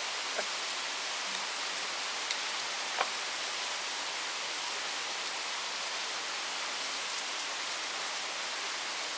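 Steady rain falling, an even hiss, with a few sharper drop taps, the clearest about three seconds in.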